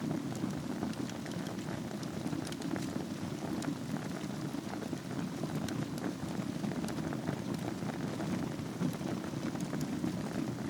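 Fireplace fire burning over glowing embers: a steady low rush with many small crackles and pops scattered throughout.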